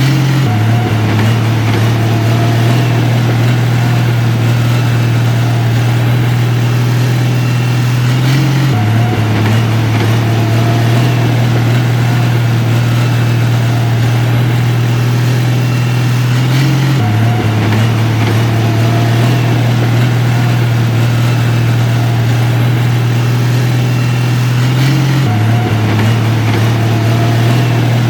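Heavy construction machine's diesel engine running steadily with a deep hum. The same few seconds repeat about every eight seconds, each time with a slight drop in pitch.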